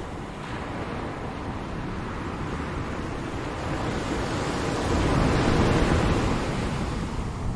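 Ocean surf washing steadily, swelling to its loudest as a wave comes in about two-thirds of the way through, then easing.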